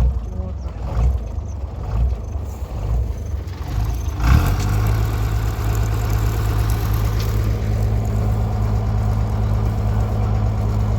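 Tractor diesel engine running. It runs unevenly for about four seconds, gives a brief loud burst, then settles into a steady, even run.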